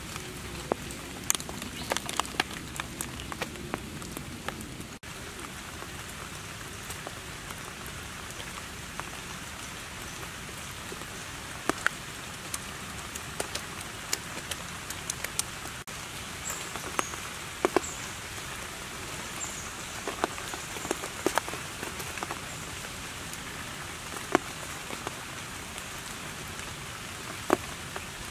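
Steady hiss of rain falling on leaves and the ground, with scattered sharp ticks of single drops.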